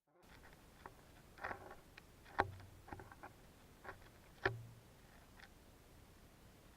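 Irregular clicks and knocks picked up by a camera filming underwater, with two louder knocks carrying a low thud, about two and a half and four and a half seconds in.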